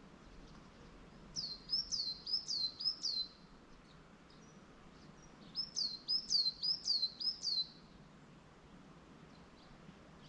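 A songbird singing two quick phrases of high, falling notes, about four notes a second, one starting a second or so in and the other near six seconds, over a faint steady background hiss.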